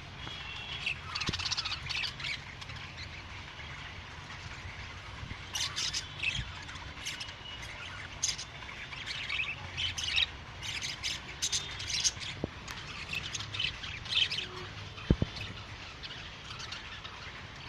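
Budgerigars chirping and chattering in quick runs of short, high calls, busiest through the middle. A single sharp click sounds a little over three quarters of the way through.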